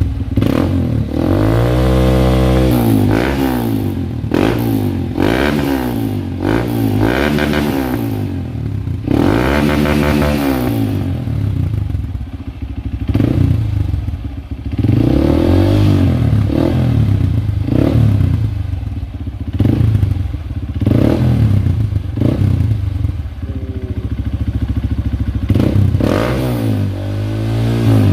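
Honda CRF150L's single-cylinder four-stroke engine revving through a Norifumi Rocket 4 aftermarket exhaust, the throttle blipped again and again so the pitch rises and falls with each rev.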